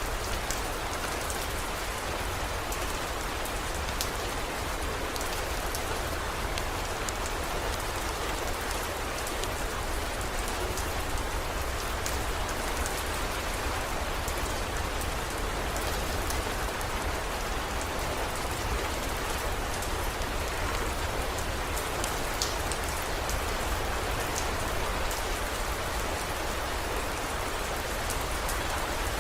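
Steady heavy rain, an even rushing hiss scattered with sharp little drop ticks, over a low steady rumble.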